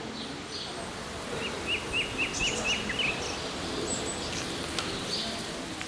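Birds chirping over a steady background noise. About a second and a half in, one bird gives a quick run of about seven short, repeated chirps, roughly four a second.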